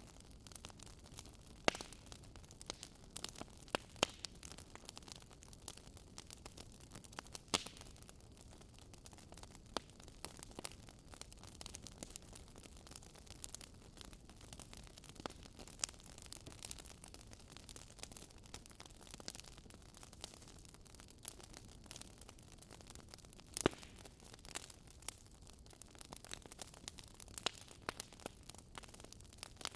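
Wood campfire crackling: irregular sharp pops and snaps over a faint steady hiss, a handful of them clearly louder than the rest.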